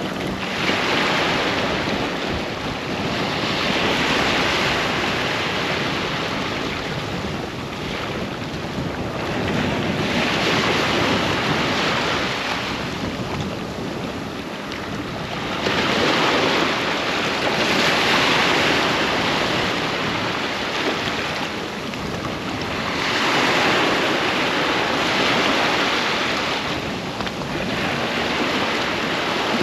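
Surf washing onto a sandy beach, waves breaking and rushing in as swells every five to seven seconds over a constant wash, with wind buffeting the microphone.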